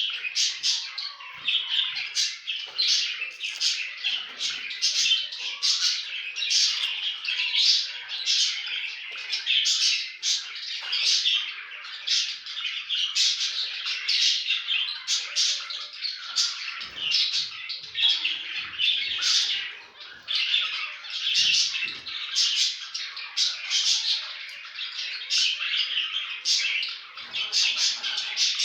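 A flock of zebra finches calling together in a continuous chorus of short, high, overlapping calls, several each second.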